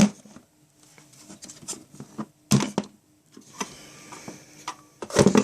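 Short, scattered knocks, clicks and rustles of vacuum cleaner parts and packaging being handled during unboxing, with two louder clatters about two and a half and five seconds in.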